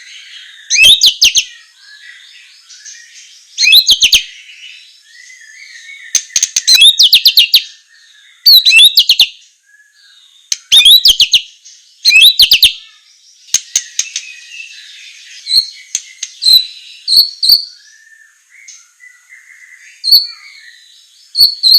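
White-rumped shama (murai batu) song: loud, harsh rattling phrases every second or two, with softer warbling between them. From about two-thirds of the way in come sharp high notes repeated about twice a second.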